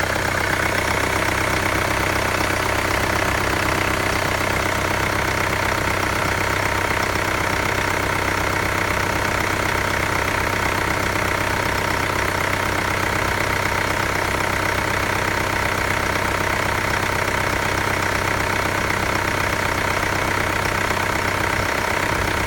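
2018 Mercedes-Benz GLA 200 d's 2143cc four-cylinder turbo diesel idling steadily.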